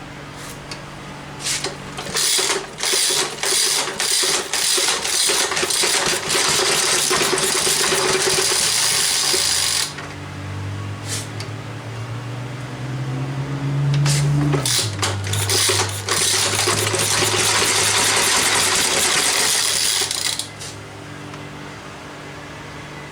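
Briggs & Stratton model FI single-cylinder engine running unevenly: two long loud spells of rapid firing, and between them a steady note that rises and then drops suddenly, with a quieter steady running note before and after. The uneven running fits the fuel problem found soon after.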